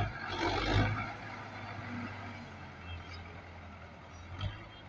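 Tractor engine running steadily at a low hum, with a louder noisy rush in the first second and a short knock about four and a half seconds in.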